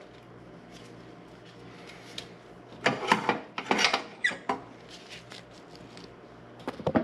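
Hand work on parts of an intake manifold, with squeaking, rubbing and clattering. It comes in a longer burst from about three seconds in and a short one near the end, over a faint steady hum.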